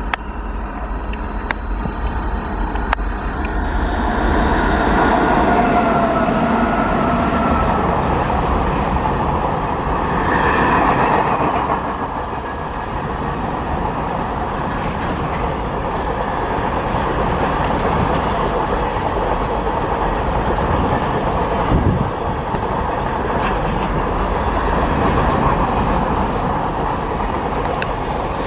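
Twin WAG-9HC electric locomotives passing close, with a whine a few seconds in as they go by. A long train of covered freight wagons follows, rolling past with steady wheel clatter.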